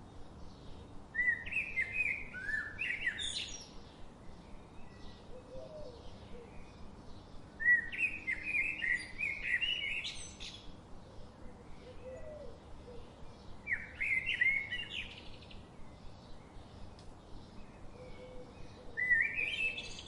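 A songbird sings the same short phrase four times, about six seconds apart. Each phrase is a quick jumble of notes that ends in a sharp rising upsweep, over a steady low background hiss.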